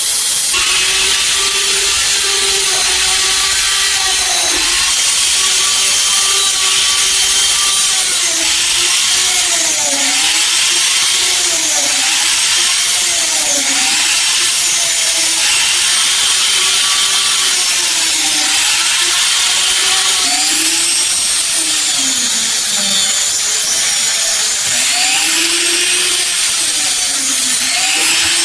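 Electric power tool running continuously, its motor pitch sagging and recovering every second or two as it is pressed on the work.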